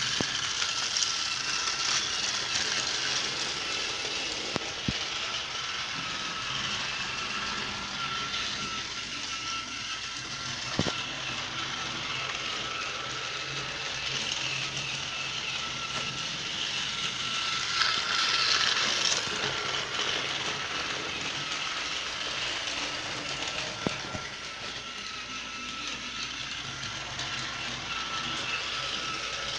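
Battery-powered TOMY Thomas toy train running along its plastic track pulling two cars: a steady small electric motor whir with a thin high whine and rattling wheels. There are a few sharp clicks along the way.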